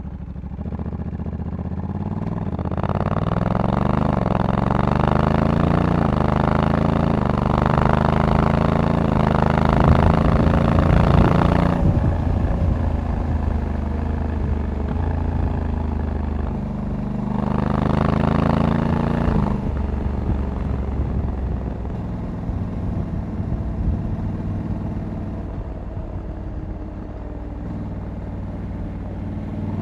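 Honda Africa Twin 1100's parallel-twin engine accelerating, its revs rising and stepping down as the DCT gearbox shifts up, then easing off about twelve seconds in. A second shorter pull comes around eighteen seconds, then it runs steadily at lower revs with wind rush.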